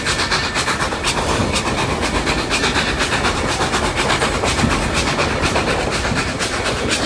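Narrow-gauge steam train running, a quick, steady rhythm of clacks.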